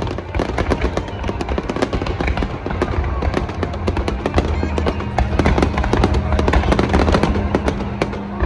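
Fireworks in a dense barrage: many shell bursts and crackles a second, with music playing underneath.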